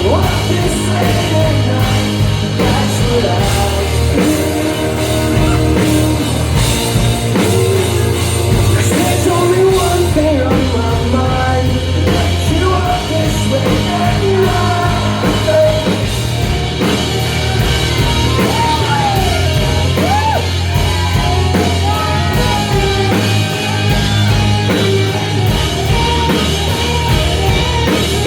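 Rock band playing live at full volume, with a singer's voice over the band.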